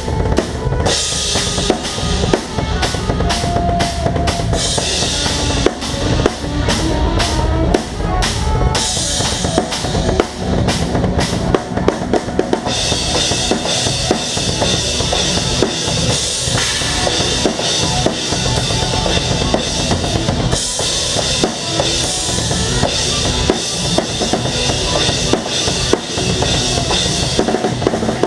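Rock drum kit played live with the band: kick drum and snare keep a driving beat, with stretches of sustained cymbal wash that come and go every few seconds, over other pitched instruments.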